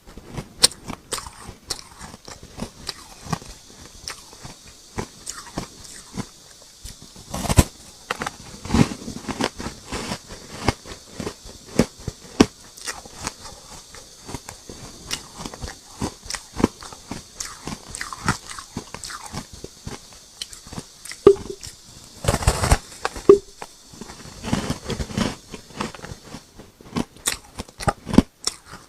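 Close-up biting and chewing of hard ice chunks dusted with matcha powder: dense, irregular crunching and cracking, with a few louder bites about a third of the way in and again past the three-quarter mark.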